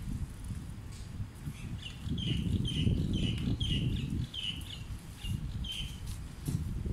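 A bird calling in a quick series of short high chirps, about two a second, for several seconds, over a low rumble.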